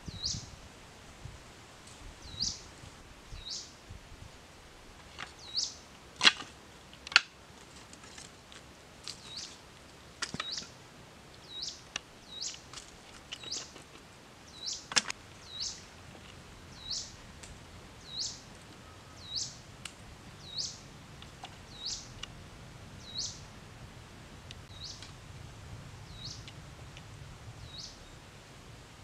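A bird repeating a short, high, rising chirp about once a second, with a few sharp knocks in the middle stretch, the loudest two close together.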